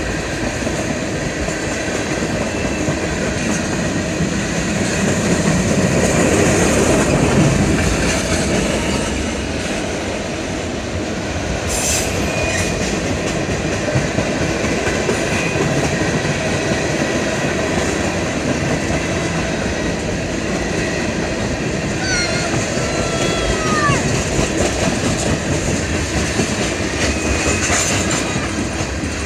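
A mixed freight train's cars rolling past with a steady rumble and clatter of wheels on the rails. There is one sharp clank about twelve seconds in, and short falling wheel squeals a little past twenty seconds.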